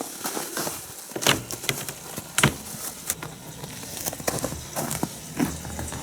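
Footsteps crunching in snow, with irregular knocks and rustles; the sharpest knock comes about two and a half seconds in.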